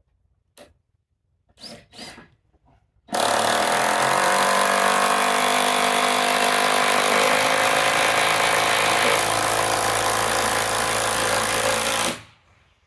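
Ryobi cordless impact driver hammering a lag bolt into timber framing, running without a break for about nine seconds and stopping suddenly, after a few light knocks.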